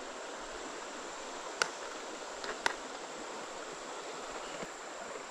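Steady rush of flowing river water, with two sharp clicks about a second apart midway through.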